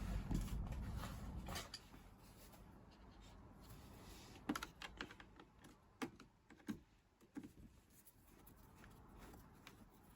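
A low steady hum that stops about a second and a half in, followed by a few scattered light clicks and knocks.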